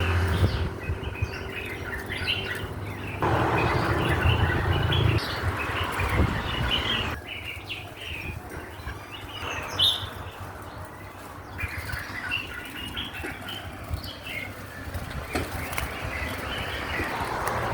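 Many small birds chirping in short, repeated calls, with stretches of wings flapping.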